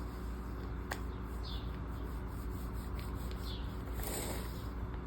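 Quiet handling of paper and stickers on planner pages: a single click about a second in and a brief rustle about four seconds in, over a steady low hum. Faint short high chirps come about every two seconds.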